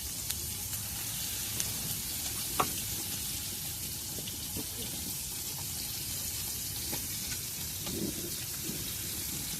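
Food frying in a pan over a campfire: a steady sizzling hiss with scattered small crackles and one sharper click about two and a half seconds in.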